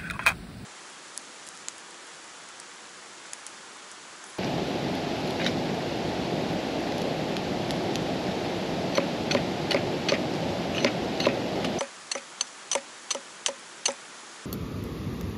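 Wood fire crackling, with sharp irregular pops, several in quick succession near the end. A steady rushing noise cuts in and out abruptly between shots.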